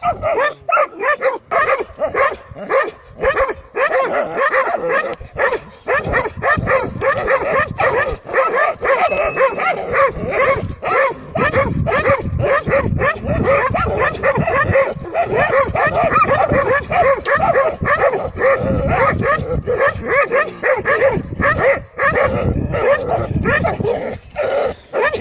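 Several dogs barking and yelping rapidly and without pause, their calls overlapping, as they confront a cobra.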